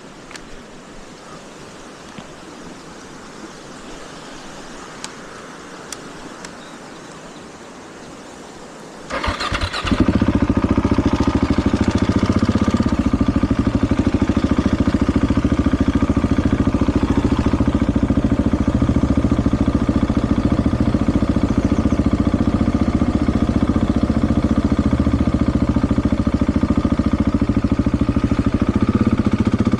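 Faint background hiss with a few light clicks. About nine seconds in, the KTM 690 SMC R's single-cylinder engine cranks and fires, then settles into a loud, steady idle.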